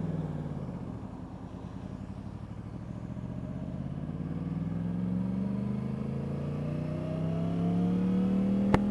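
Yamaha R1's crossplane inline-four engine dropping in revs, then pulling up through the revs in one long, steady climb while riding. A single sharp click near the end.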